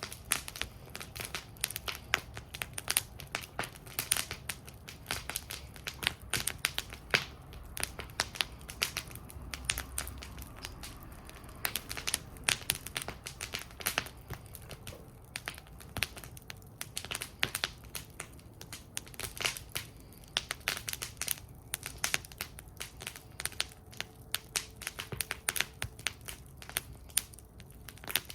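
Campfire burning in a metal fire bowl, crackling with many irregular snaps and pops over a low steady rumble.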